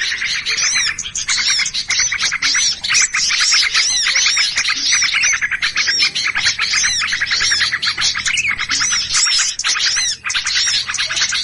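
Dense, loud chattering of many small birds at once, with overlapping chirps and repeated short arching whistles. These are the agitated, alarmed calls of mixed small birds used as a bird-trapping lure sound.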